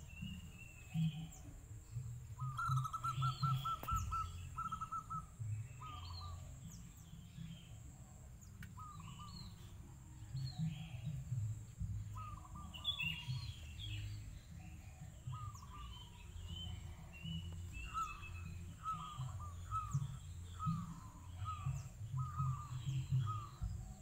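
Zebra doves (perkutut) cooing in repeated short staccato notes, some run together into quick trills, with other small birds chirping higher over a steady low rumble.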